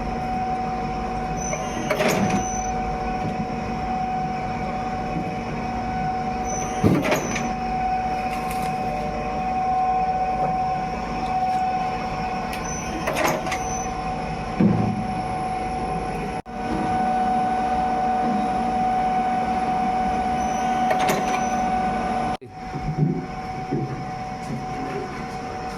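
Factory machinery running with a steady, humming drone, broken by a few sharp clanks.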